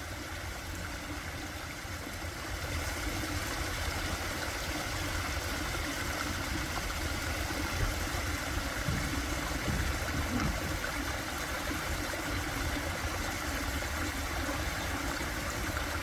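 Seasonal stream water running steadily over a rocky outcrop, with a low rumble underneath; it gets a little louder about two and a half seconds in.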